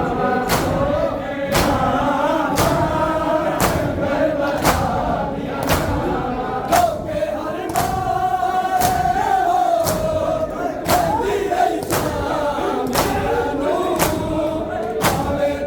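A crowd of male mourners chanting a noha together, with a sharp chest-beating stroke (matam) about once a second, evenly in time with the chant.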